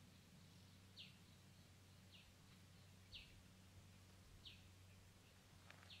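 Faint high bird chirps: five short falling notes about a second apart, over a low steady hum.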